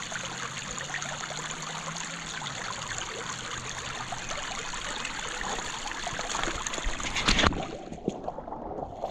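Stream water running steadily. A sharp knock comes about seven seconds in, after which the water sounds softer.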